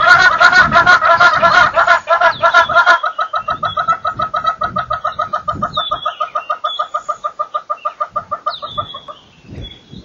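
Birds calling in fast runs of repeated notes, several together and loud at first. After about three seconds a single bird carries on more quietly until near the end, with a few higher whistled calls above it.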